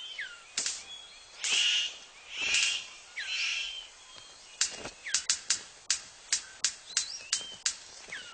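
A male superb bird of paradise displaying to a female: a few harsh rasping calls, then a quick run of sharp, rhythmic clicks, about two or three a second, with short gliding whistles in between.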